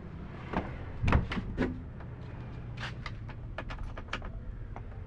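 A string of short knocks and clunks, the loudest a little after a second in, over a low steady hum.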